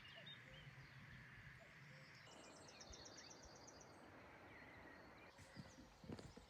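Near silence: faint outdoor farmyard ambience with a brief, faint bird trill of rapid high notes a couple of seconds in, and a few soft knocks near the end.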